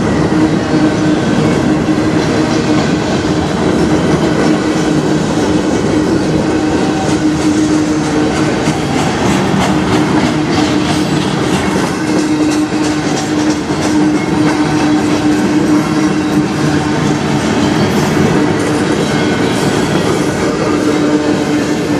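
Freight cars of a manifest train (gondolas, tank cars and covered coil cars) rolling past close by, a steady loud rumble of steel wheels on rail with clacks over the rail joints. A steady tone rings through it.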